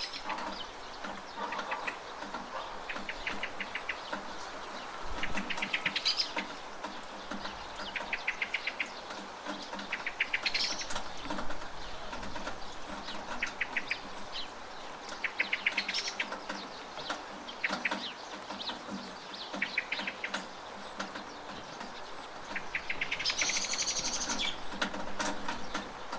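Steady rain falling, with a bird repeating a short, rapid trill every two to three seconds.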